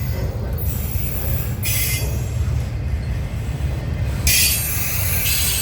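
A train's wheels rolling over the rails with a steady low rumble, with two bursts of high-pitched wheel squeal, one about a second and a half in and a longer one about four seconds in.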